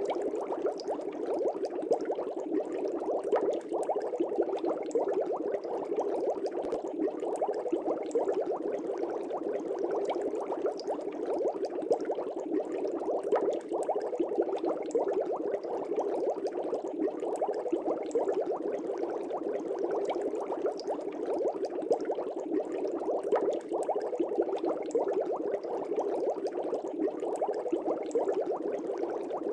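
Aquarium air bubbles rising and breaking in a fish tank: a steady, dense bubbling with constant small pops.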